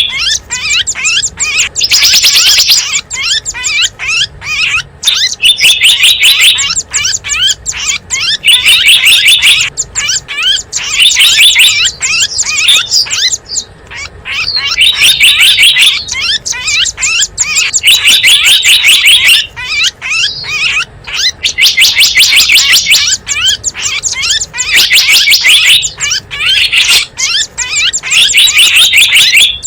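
Lure recording of small birds' calls: loud phrases of fast, high chirps, each about a second long, repeating every second or two. It is played to attract small wild birds.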